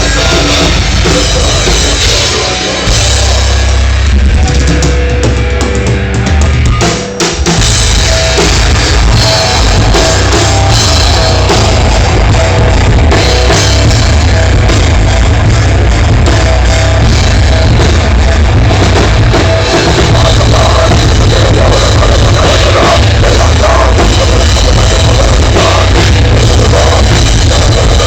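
Loud rock band music, heavy-metal style, with a full drum kit, bass drum and cymbals and heavy low bass. It drops out briefly about seven seconds in, then carries on.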